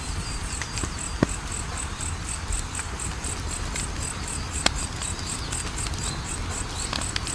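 Wood fire crackling, with sharp pops about a second in and near the middle over a low rumble, while a cricket chirps steadily about four times a second.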